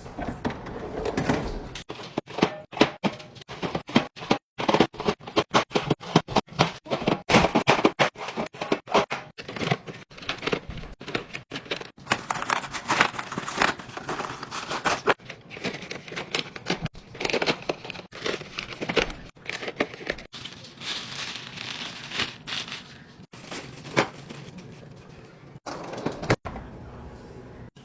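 Food containers and packages being handled and set into a refrigerator: a quick run of knocks and taps of items put down and arranged, with crinkling and tearing of packaging, broken by a few abrupt cuts.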